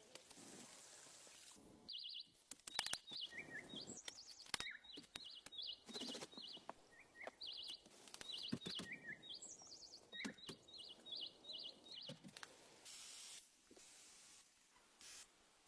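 Small bird calling with short, high chirps, repeated many times from about two seconds in until about twelve seconds in. Scattered knocks and rustling run underneath.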